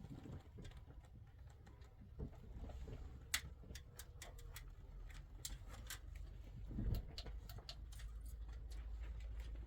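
A run of irregular sharp clicks and taps, several a second at their busiest, over a steady low rumble.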